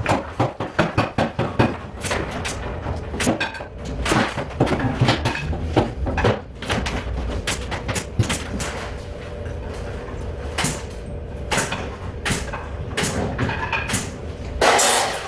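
Irregular knocks, clacks and clatter of hand work on an interior building site, over a faint steady hum, with a louder rushing burst near the end.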